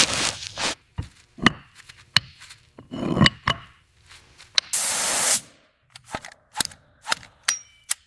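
Tools working on steel parts: a run of separate sharp metallic knocks and clicks, some ringing briefly, with a short burst of hiss about five seconds in.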